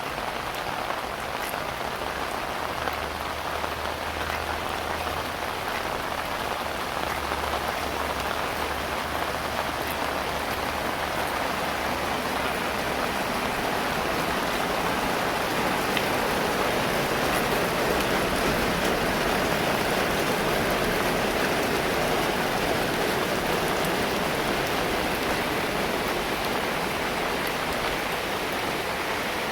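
Heavy rain pouring steadily, with a low rumble of wind in the first half and the downpour growing a little louder through the middle.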